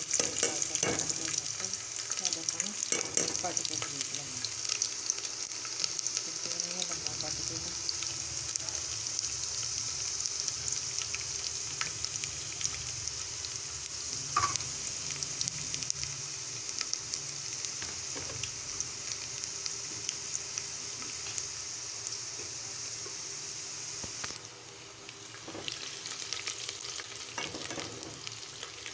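Chopped onion sizzling in hot oil in an aluminium pot, stirred with a steel ladle that scrapes and clicks against the metal. The sizzle turns quieter near the end.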